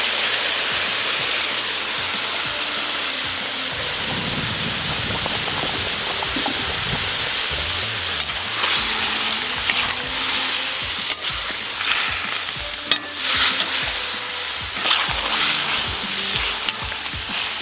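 Quail halves and butter sizzling in a hot kazan as mushroom broth is poured over them, a steady hiss that swells a few times, with a couple of sharp clicks in the second half.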